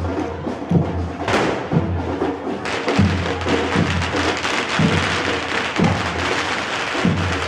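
Drums beating a slow, steady beat, roughly one deep thump a second. A loud burst of noise comes about a second in, and a steady noisy din joins from about two and a half seconds in.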